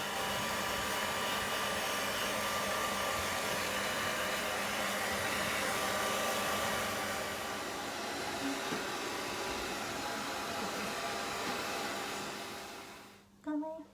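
Hair dryer blowing steadily, then switched off, its sound dying away about a second before the end.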